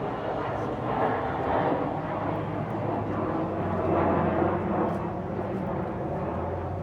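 A vehicle engine running steadily with a low hum, under background chatter from people nearby.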